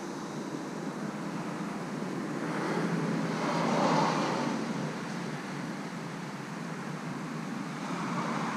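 A car passing on the nearby road, its tyre and engine noise swelling to a peak about four seconds in and fading away, over steady traffic noise.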